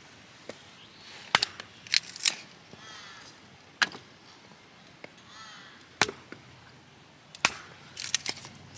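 A series of sharp, irregular wooden cracks or knocks, about eight of them, with crows cawing faintly in the background twice.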